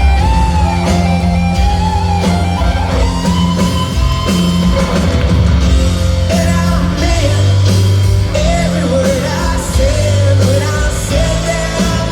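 Live rock band playing a rock ballad, loud and continuous, with a gliding lead melody over steady bass and drums.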